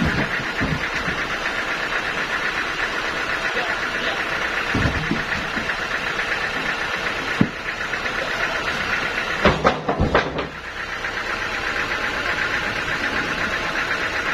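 An engine running steadily with a fast, even pulse, broken by a few knocks and clanks. The loudest are a cluster of clanks about ten seconds in.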